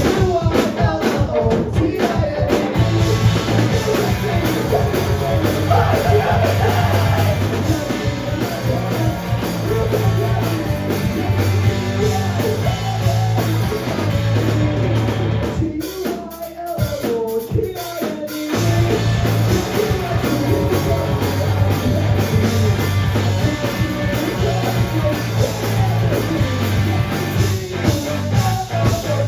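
Rock band playing live: drum kit, bass and guitars with a singer's voice, loud and dense, thinning out briefly a little past the middle before the full band comes back in.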